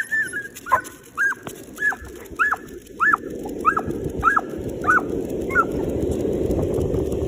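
A dog giving a quick run of high-pitched excited yips, about ten short cries that rise and fall, each weaker until they stop after about five seconds. A rushing noise builds in from about the middle.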